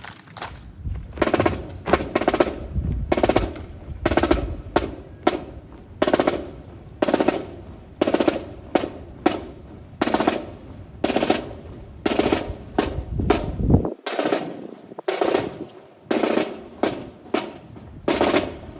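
Snare drum beating a marching cadence of sharp strokes and short rolls, about two a second, accompanying a rifle drill.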